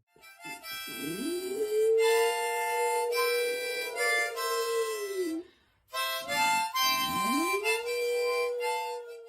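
A dog howling along to harmonica chords: two long howls, each sliding up from low and then held, the first dropping away about halfway through.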